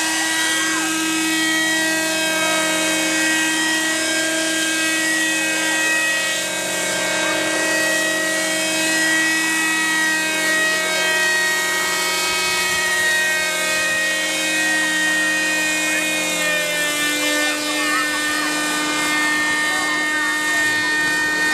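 Helicopter running close by: a steady turbine whine with several held tones and a constant rotor noise, the pitch shifting slightly about seventeen seconds in.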